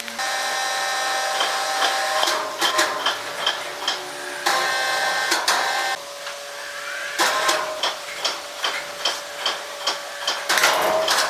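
Sawmill machinery running: a steady whine with many sharp knocks and clatters, some in quick runs of two to three a second. The whine comes in suddenly at the start, drops away around six seconds in and picks up again a second later.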